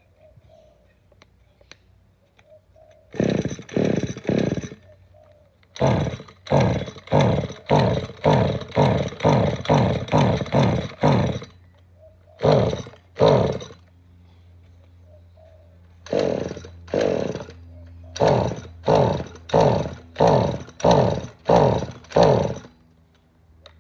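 Ryobi two-stroke string trimmer being pull-started over and over, about two dozen quick recoil-cord pulls in four runs. Each pull gives a short cranking whirr that rises in pitch, and the engine never catches: it won't start.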